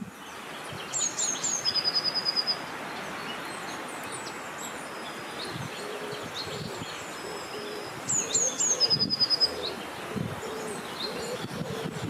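A songbird sings the same short song twice, about seven seconds apart: a few quick high falling notes, then a fast trill. Behind it runs a steady rush of wind.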